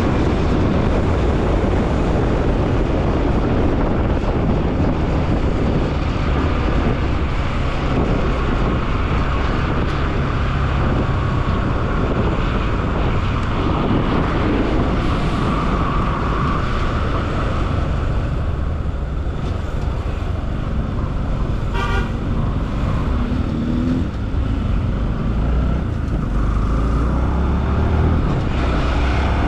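Motorcycle riding through city traffic, a Bajaj Pulsar NS200's single-cylinder engine running under a steady rush of wind and road noise, with a vehicle horn sounding around the middle.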